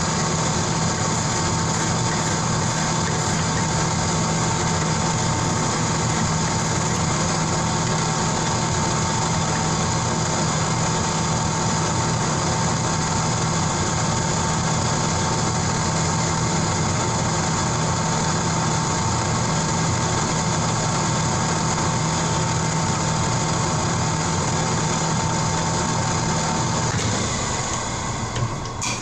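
A shop machine running steadily with a constant high whine over a low hum, winding down near the end.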